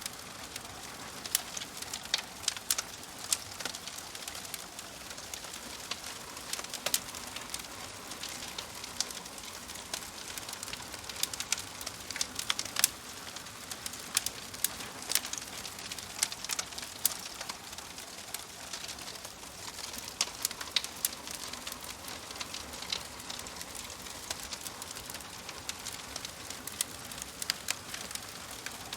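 Fireplace wood fire crackling: a steady hiss with frequent sharp, irregular pops and snaps.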